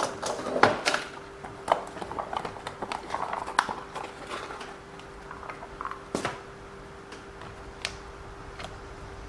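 Small parts and tools being handled on a workbench: a run of irregular clicks, taps and rustles, loudest in the first second and again about six seconds in.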